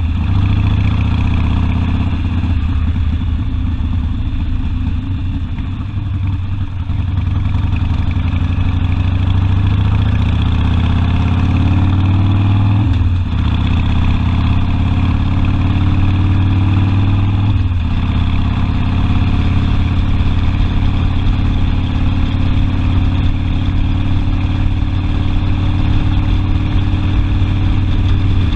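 Harley-Davidson Sportster's V-twin engine pulling the bike under way. The engine note climbs steadily, drops at an upshift about 13 seconds in, climbs again to a second upshift about 18 seconds in, then runs steady at cruising speed.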